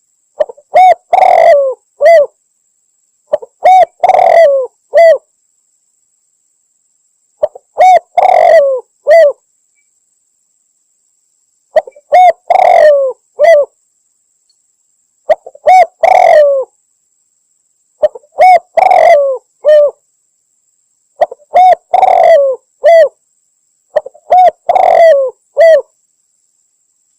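Spotted dove (tekukur) cooing: a phrase of several coos repeated about every three to four seconds, eight times, with silence between phrases. It is a hunting lure call, presented as a female calling a male.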